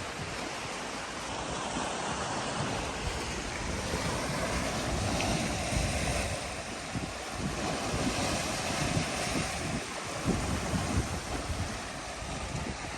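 Caspian Sea waves washing in continuously, swelling somewhat louder in the middle, with wind rumbling on the microphone.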